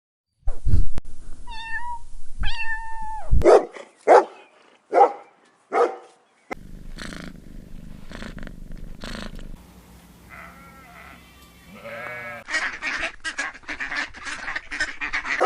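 A series of short animal-call clips one after another: pitched, wavering calls and runs of short rapid calls, with abrupt changes between segments.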